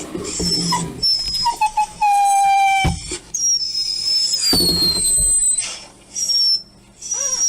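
Recorded dog crying sounds played through computer speakers: a string of high-pitched whines and short whimpering cries, one long whine falling in pitch about halfway through.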